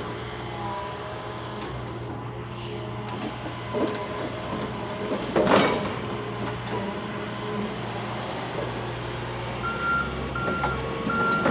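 Large diesel excavator running steadily, with one short loud noise about halfway through. Near the end its travel alarm starts beeping at an even pace as the machine moves.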